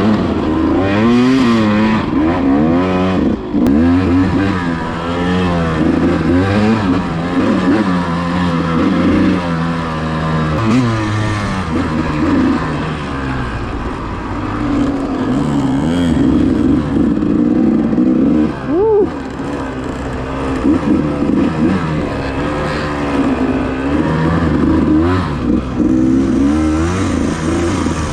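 KTM 200 two-stroke dirt bike engine being ridden, revving up and down over and over as the throttle is worked, with some clatter.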